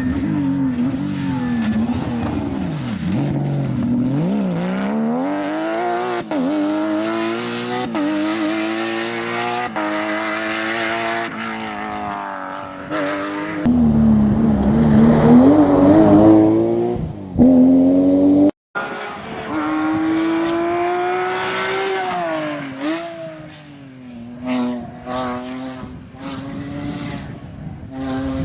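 Porsche rally car engine revving hard under full throttle, its pitch climbing and dropping again with each gear change. A sudden cut about two-thirds of the way through jumps to another pass, and near the end the engine holds a steady tone.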